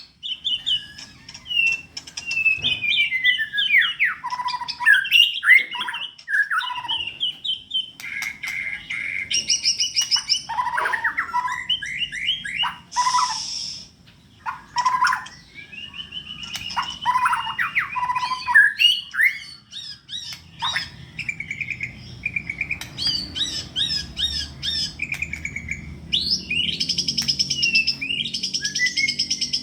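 White-rumped shama (murai batu) in full, nonstop song, a varied run of clear whistles, fast trills and chattering phrases with only brief pauses.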